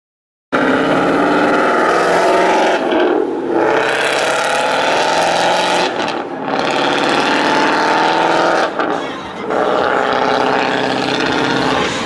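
Car engine revving loudly and accelerating, its pitch rising and falling, with short drops in level about every three seconds. It starts after a brief silence.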